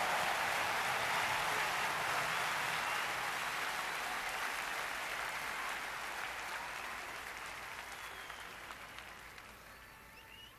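Audience applauding, fading out gradually.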